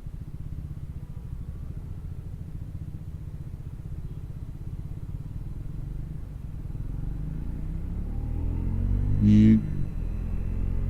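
Triumph Speed 400's single-cylinder engine running steadily at low revs, then pulling away with a rising engine note and growing louder from about seven seconds in. A brief louder sound cuts in near nine seconds.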